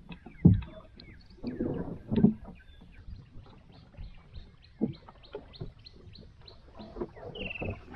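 Birds calling: a run of short, high chirps repeated about four times a second, with a single falling call near the end. Several dull knocks and thuds sound under them, the loudest about half a second in.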